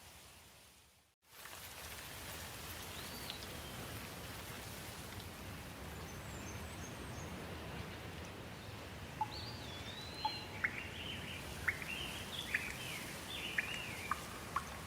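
Steady rain falling, with small birds chirping and calling, sparse at first and frequent in the second half. About a second in, the sound fades out to near silence for a moment and then the rain comes back.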